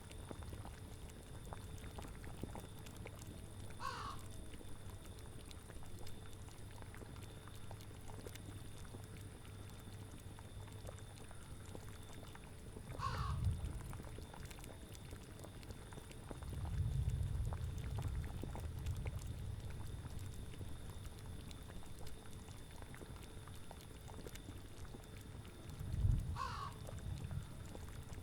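Spooky ambience soundscape: a steady low bed of bubbling cauldron and autumn wind that swells now and then, with a short animal call heard three times, near the start, about halfway and near the end.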